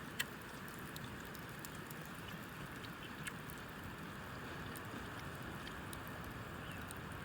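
Wood fire crackling with scattered sharp pops over a steady rushing hiss.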